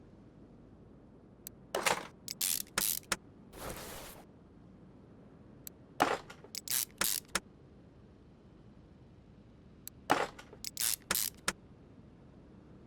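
Sharp clicks and clinks of handled metal parts and tools, in three short clusters about four seconds apart, with a brief hiss between three and four seconds in.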